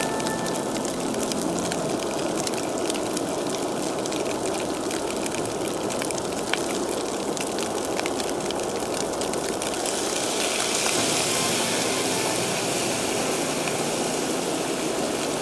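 MSR Dragonfly gasoline camp stove burning with a steady roar, scattered with small crackling clicks. A brighter, higher hiss joins about ten seconds in.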